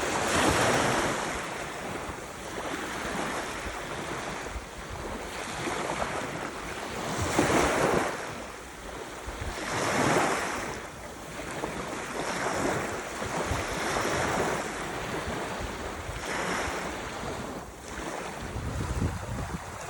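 Ocean waves breaking and washing on the shore, the surf swelling and falling every few seconds, with rumbling wind on the microphone.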